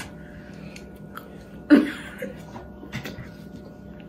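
People chewing soft french fries, with small mouth clicks over a steady fan hum, and one short vocal sound a little under two seconds in.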